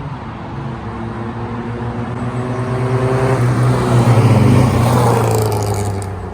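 Two classic cars' four-cylinder engines at full throttle in a drag race, the engine note climbing through the gears. It grows louder to a peak a little past the middle, where the pitch drops as the cars pass by, then fades away.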